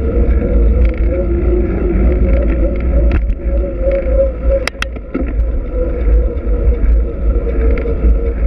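Wind rumbling on an action camera's microphone while riding a Trek X-Caliber 8 mountain bike, with a faint wavering hum. About halfway through come two sharp clicks a fraction of a second apart.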